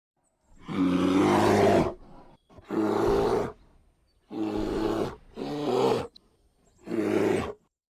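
A large animal roaring: five rough, deep calls of about a second each, with short gaps between them.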